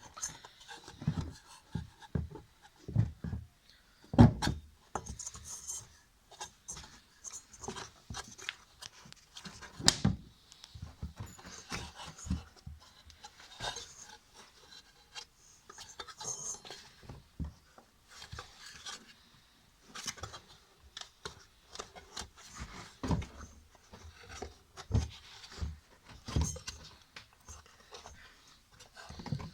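Irregular knocks, taps and rubbing as a water seal is worked down into place on an automatic washing machine's gearbox. The sharpest knock comes about four seconds in, another near ten seconds.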